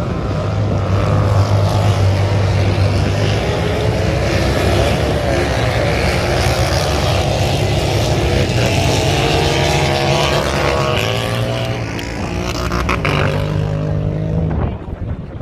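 Motorcycle engine running under way with wind noise. The engine note holds steady, then shifts in pitch about three-quarters of the way through and drops away near the end.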